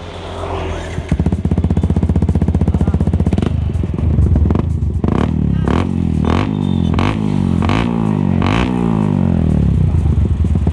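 Yamaha Vixion's 150 cc single-cylinder four-stroke running through a muffler with its baffles hollowed out for a deeper, bassier exhaust note. It idles, gets a string of quick throttle blips in the middle, then settles back to idle.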